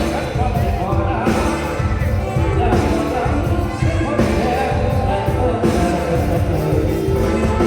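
Live mor lam band music: a loud, dense mix with a heavy, pulsing bass and drum beat under a bending melody line.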